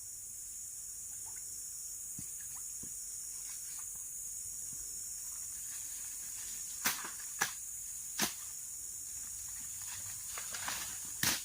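Steady, high-pitched insect chorus of forest crickets, with a few sharp clicks or snaps in the second half.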